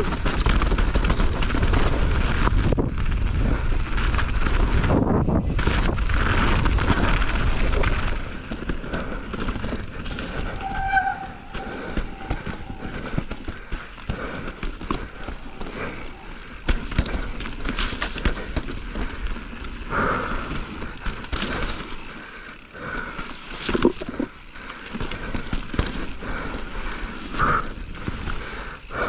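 Mountain bike riding a trail, heard from the bike's own GoPro Hero 10: a loud rush of wind on the microphone for the first several seconds, then quieter tyre noise with frequent clicks and rattles from the bike.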